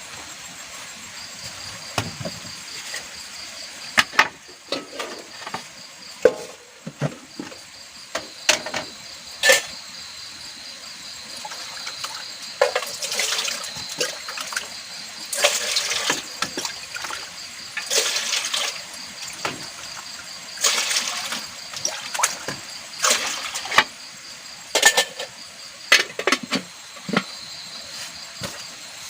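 Water being poured and splashed in short bursts of about a second, with clicks and knocks of handling in between, over a steady high chirring of insects.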